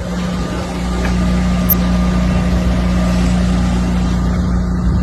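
A steady mechanical hum from a running engine or motor, with a constant low drone and a rushing noise over it that stays level throughout.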